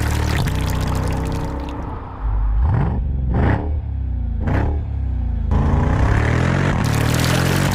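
Heavy vehicle engine running steadily, revving up and back down twice in the middle.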